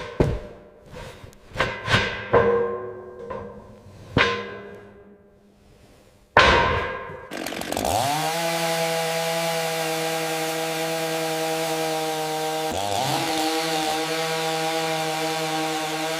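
A series of sharp knocks with a short ringing tone after each. Then a motor-driven tool spins up and runs at a steady high speed, with a brief dip in its speed near the end.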